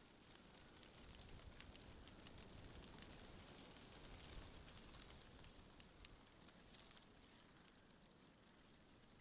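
Faint wind with many light scattered ticks and crackles, a little louder through the middle.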